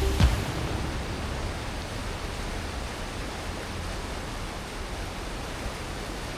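Steady, even rushing of flowing water, after a single short hit about a quarter second in.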